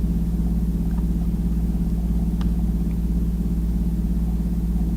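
Steady low machine hum, unchanging, with two faint clicks about one and two and a half seconds in.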